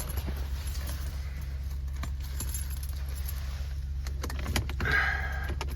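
Vehicle engine idling steadily with a low hum soon after a cold start in sub-zero cold; keys jangle and clink in the last second or so.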